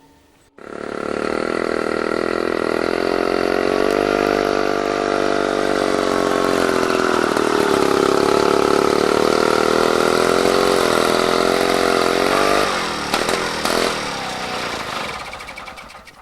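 Motor vehicle engine running steadily, then about thirteen seconds in it falters and sputters unevenly for a few seconds before dying out: the fuel tank has run dry.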